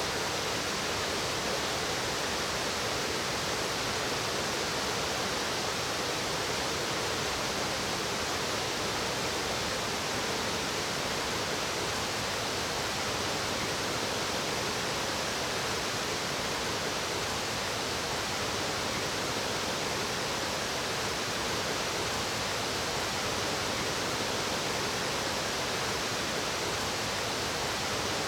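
Water of a mountain stream rushing, a steady even sound with no break.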